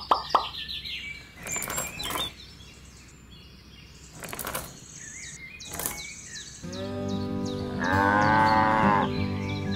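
Small coloured pebbles rattling down in a few short rushes as they are scattered by hand, over steady bird chirping. Background music comes in about seven seconds in.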